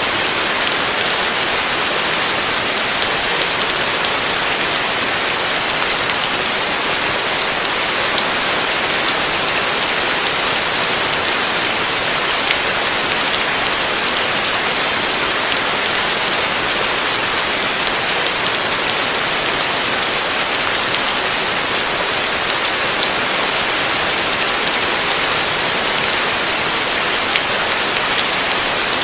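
Heavy rain falling steadily on a roof, a dense hiss with fine drop patter.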